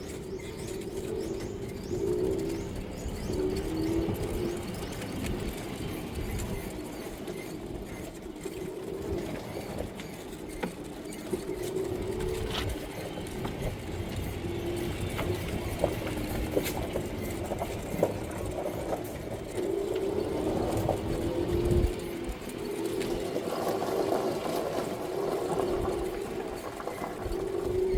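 Doves cooing: short, low calls repeated again and again, over a steady low rumble.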